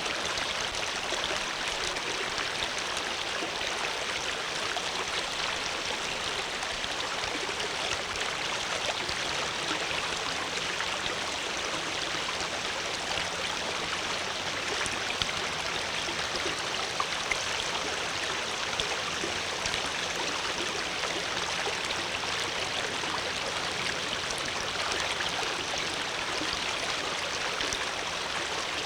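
Flowing water: a steady, even rush like a stream running over rocks, with small splashes and drips now and then.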